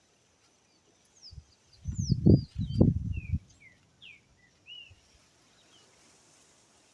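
A bird sings a quick run of short, high chirps, most sliding down in pitch. Two loud dull thumps come about two and three seconds in.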